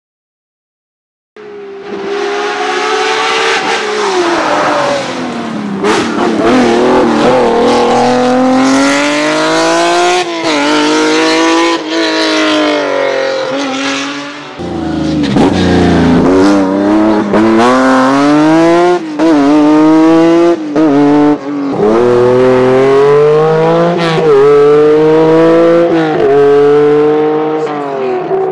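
Lancia car engine revving hard and changing gear over and over: the pitch climbs, drops at each shift and climbs again. It starts after about a second of silence, and there is a brief dip with a deeper low sound about halfway through before the run-ups resume.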